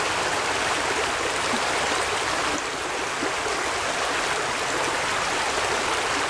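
Creek water running: a steady rushing of flowing water.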